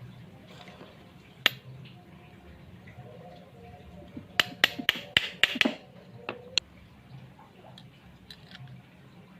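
Sharp clicks and knocks of hard objects being handled: a single click, then a quick run of about seven clicks and knocks a few seconds later, followed by two more.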